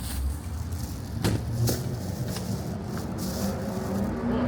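Low, steady motor-vehicle engine rumble, with a few short sharp knocks or clicks and a brief hiss.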